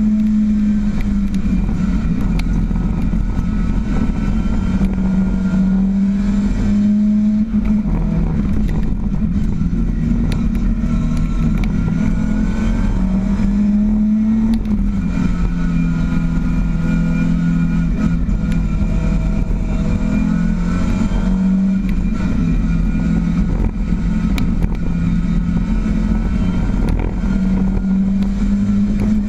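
Ford Escort RS 2000 race car's engine running hard under load, heard from inside the stripped cabin. The engine note steps up and down every several seconds as the car accelerates and eases off through the slalom course.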